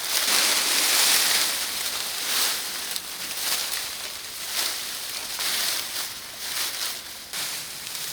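Dry leaves rustling and crunching in irregular bursts as they are handled and piled.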